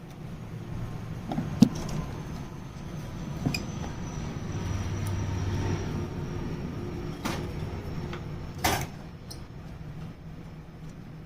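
A handful of sharp metallic clicks and knocks, a few seconds apart, from an old doorknob and its metal parts being handled, over a steady low hum.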